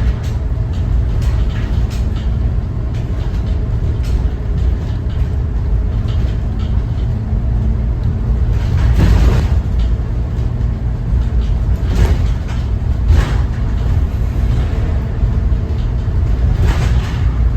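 2014 Thomas Saf-T-Liner C2 school bus under way, its Cummins ISB 6.7 inline-six turbodiesel running with a steady low rumble and road noise. Several short rattles or bumps come through, the loudest about halfway through.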